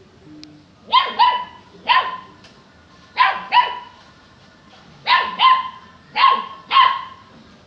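Saint Bernard puppy barking repeatedly: about nine barks, mostly in quick pairs with pauses of about a second between them.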